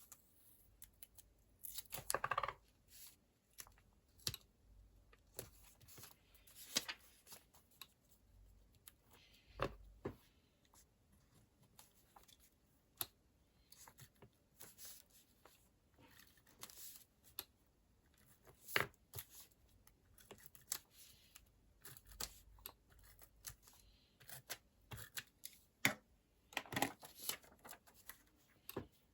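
Close-up handling of a paper planner and sticker sheets: scattered light taps and clicks, with louder rustling or peeling sounds about two seconds in and again near the end.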